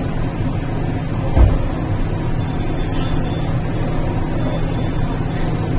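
MTR East Rail Line R-Train heard from inside the car while running: a steady low rumble of wheels on rail and running gear, with one low thump about a second and a half in.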